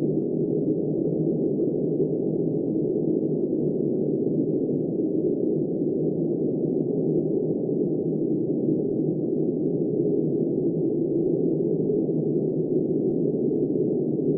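Steady snowstorm wind, a dull, muffled rush with no bright or hissing edge, holding the same level throughout.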